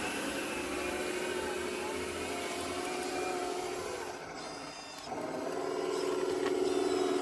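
Radio-controlled scale construction machines' electric drive motors whirring, dipping briefly about two-thirds of the way through, then a steadier, stronger whine picking up.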